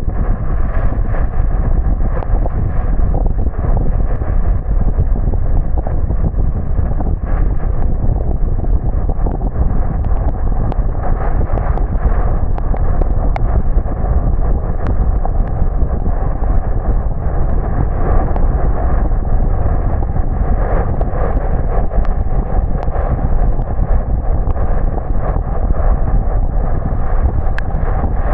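Steady low rumble of a car driving along: tyre, road and wind noise that stays even throughout, with a few faint ticks scattered through it.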